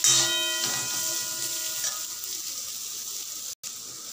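Cubed raw mango frying on medium flame in hot mustard oil in a metal kadhai, a steady sizzle as it is stirred with a metal spatula. A knock of the spatula at the start sets the pan ringing for about two seconds.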